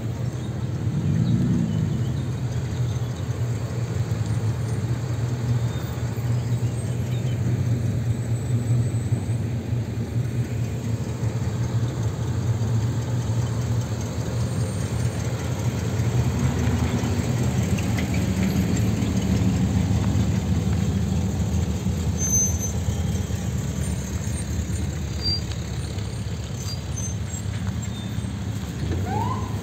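A car engine running steadily with a low hum, rising briefly in pitch about a second in. A few short rising squeaks come at the very end.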